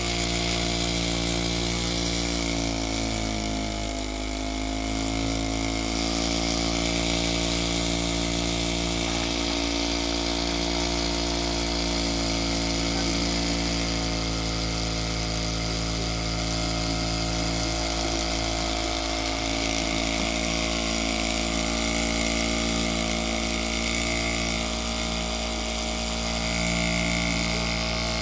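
Solar Stirling engine running steadily with a many-toned mechanical hum; its pitch sags briefly about four seconds in, then climbs back.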